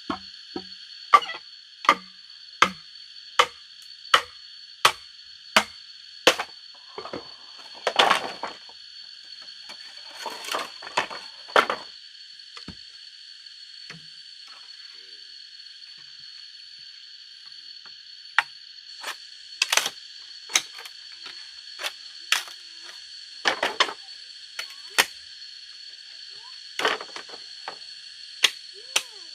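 Sharp strikes on wood or bamboo, chopping or hammering: a regular run of about one blow every three-quarters of a second for the first six seconds, then scattered knocks and short clusters with a pause in the middle. A steady high-pitched drone runs underneath.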